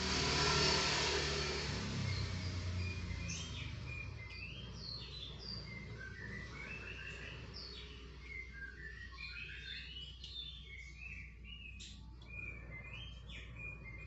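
Small birds chirping, with many short high chirps in quick succession, over a steady low hum. A loud hiss at the start fades away over the first two seconds.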